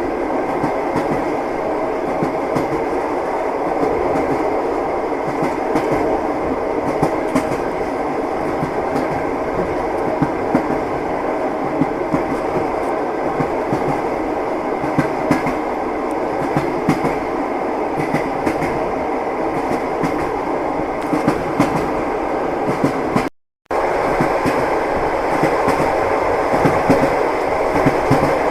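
Train wheels clattering over the rails: a steady rumble with scattered knocks. The sound cuts out completely for a moment about 23 seconds in.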